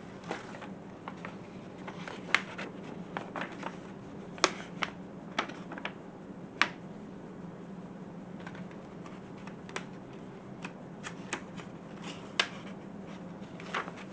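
Paper rustling and crackling in irregular bursts as a sheet of instructions is handled and leafed through, over a steady low hum.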